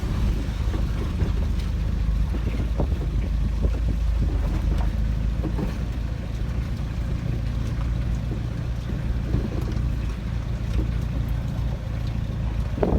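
Truck running steadily, a low engine drone with road and wind noise and a few light knocks.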